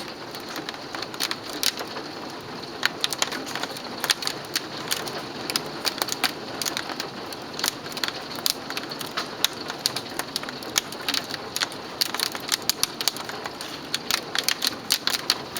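Hailstones falling and striking hard surfaces such as roof, road and window glass: a dense, irregular patter of sharp clicks over a steady hiss.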